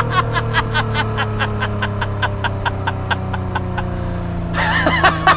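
A man laughing hard in quick, even pulses, about five a second, with a louder burst near the end. Under it the Ferrari F12 Berlinetta's 6.3-litre V12 idles, its pitch slowly falling.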